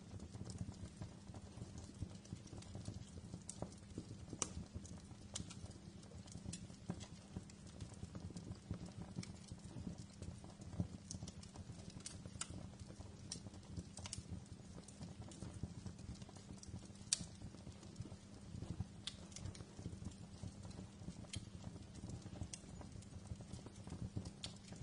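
Wood fire crackling in a fireplace: irregular sharp pops and snaps over a low, steady rumble, with one louder pop about 17 seconds in.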